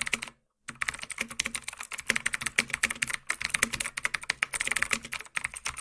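Rapid typing on a keyboard: a fast, uneven run of key clicks, broken by a brief pause about half a second in.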